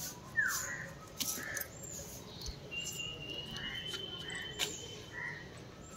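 Faint bird chirps: a short falling call near the start and several brief calls later, over a thin steady high tone through the middle. A few sharp clicks are also heard.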